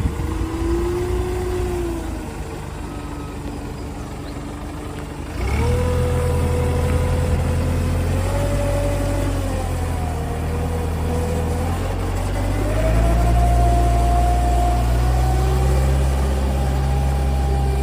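New Holland 5380 backhoe loader's diesel engine running at low speed, then speeding up suddenly about five seconds in and running harder. A whine over the engine wanders up and down in pitch, and the engine and whine step up again past the halfway point.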